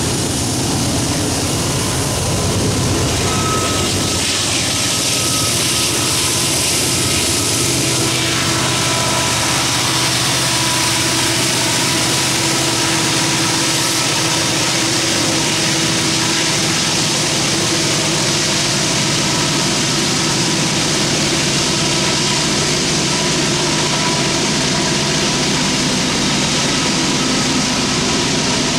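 Loaded coal train climbing a grade: coal hoppers rolling by with a steady rumble, then the rear distributed-power diesel locomotives, an SD70ACE and an AC44C6M, working hard as they pass and pull away. A steady howl from the locomotives rides over the rumble from several seconds in, and the sound stays loud to the end.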